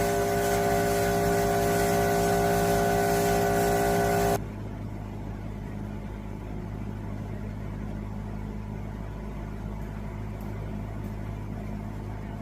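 Powder-coating spray rig running: a loud air hiss with a steady buzzing drone, cutting off suddenly about four seconds in, after which only a low steady hum remains.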